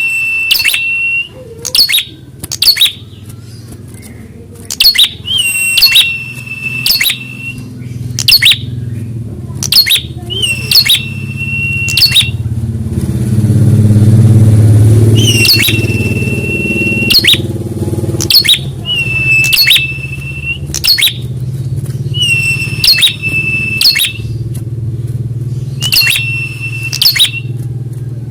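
Prenjak (prinia) calling over and over: each call is a burst of sharp clicking notes followed by a held high whistle about a second long, repeating every couple of seconds, with a break about halfway through. A low engine rumble swells and is loudest during that break.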